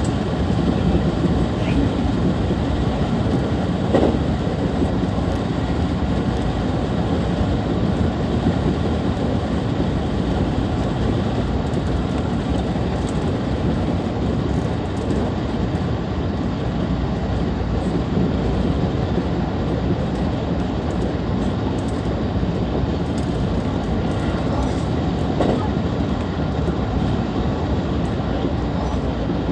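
223 series electric train running at speed between stations: a steady rumble of wheels on rail and running gear, with a brief knock about four seconds in.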